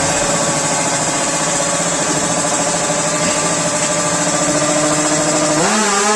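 Motorcycle engine running steadily at a fast idle, then revving up near the end.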